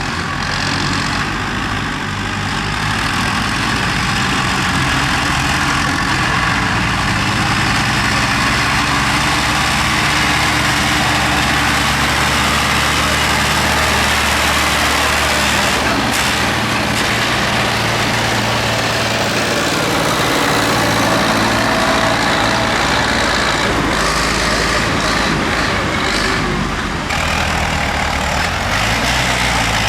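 Tractor engines running close by, with a steady low engine note that shifts pitch now and then.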